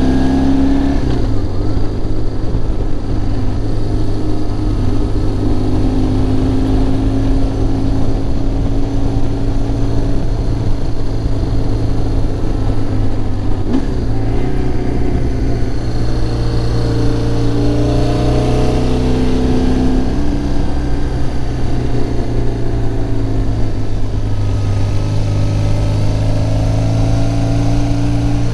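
BMW R1100GS boxer-twin motorcycle engine running under way, its pitch shifting up and down several times with throttle and gear changes and dipping briefly about 14 seconds in.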